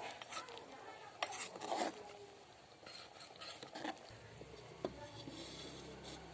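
Light knocks, clicks and scraping of a lid being set and settled on a clay cooking pot. A low hum comes in about four seconds in.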